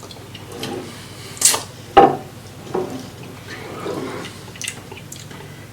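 Wet eating sounds of a seafood boil: scattered squelches, drips and clicks, with a short burst about a second and a half in and a sharp click just after.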